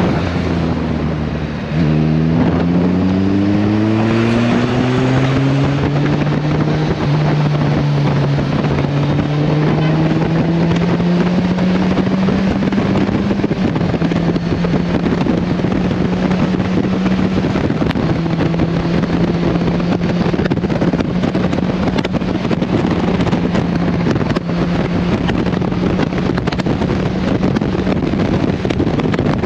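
Kawasaki Versys 1000 LT motorcycle engine under way: the pitch rises as it accelerates about two seconds in, then holds fairly steady at cruising speed with small changes, over road and wind noise.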